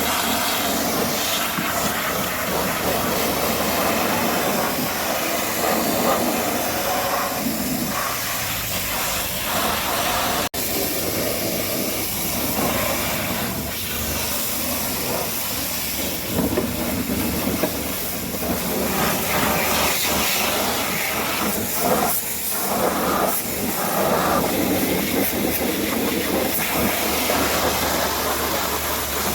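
Pressure washer spraying water onto a truck: a steady, loud hissing spray whose tone shifts as the jet moves over the surfaces, broken for an instant about ten seconds in.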